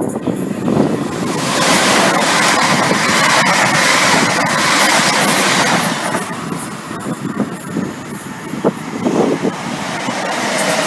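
Electric multiple-unit train noise, a steady rail and running rumble that builds about a second and a half in, eases off for a few seconds, then swells again near the end as a South West Trains Class 455 unit runs past on the near track.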